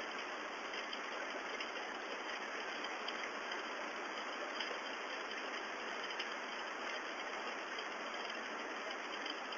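Rain falling: a steady hiss with a few faint drop ticks.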